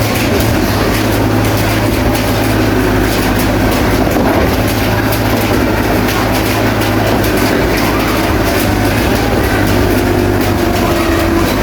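Crawler bulldozer at work: a steady, low diesel engine drone with a continuous rattle of clanks from its steel tracks.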